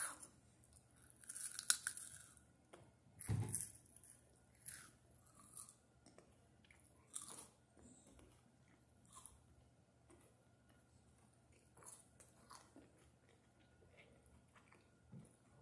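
A child chewing a Ferrero Rocher chocolate, the crisp wafer shell and hazelnut pieces crunching between the teeth. The sharpest crunches come in the first few seconds, then the chewing turns softer and more spaced out.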